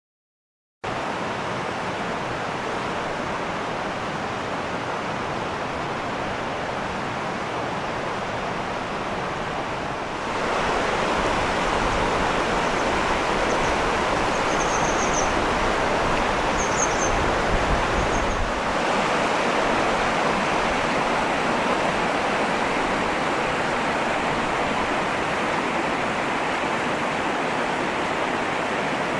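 Steady rushing of flowing water, like a stream or small waterfall, which steps louder about ten seconds in.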